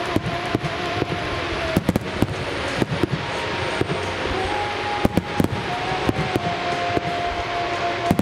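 Fireworks display: a dense barrage of bursting shells, with a continuous crackle and sharp bangs at irregular spacing, about two a second.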